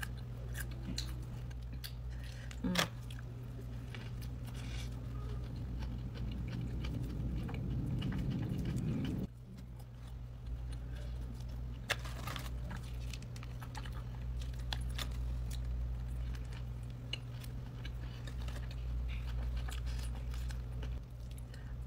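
Close-up chewing and biting of a burger and french fries: wet mouth sounds with scattered small crunches and clicks, over a steady low electrical hum. A low rushing noise builds and cuts off suddenly about nine seconds in.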